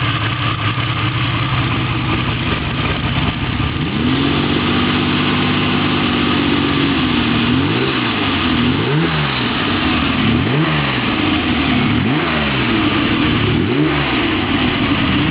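Ferrari Lusso engine running at a steady idle, then about four seconds in it is revved up and held. After that it is blipped up and down about five times, roughly every second and a half.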